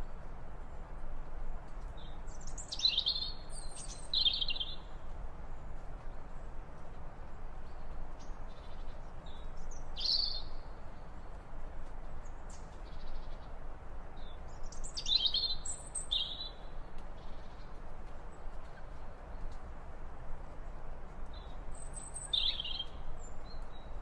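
Bird calls: short, high chirps in four clusters spaced several seconds apart, over a steady background hiss.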